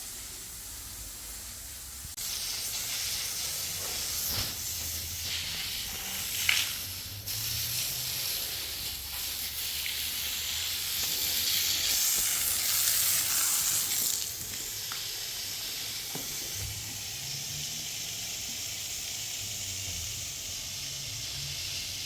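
A steady hissing noise that grows louder about two seconds in and eases back down about fourteen seconds in, with one brief sharp sound in between.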